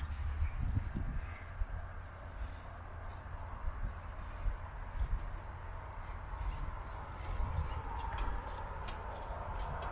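Outdoor ambience: a steady high-pitched drone over a low rumble of wind on the microphone, with a hiss that swells near the end.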